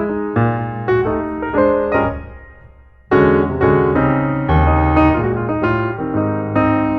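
Background piano music: notes played in quick succession, fading out a little past two seconds in, then coming back louder just after three seconds in.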